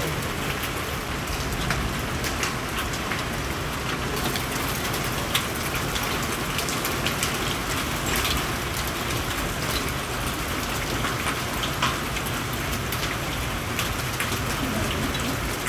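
Heavy rain pouring steadily, with scattered sharp drop impacts ticking through the hiss.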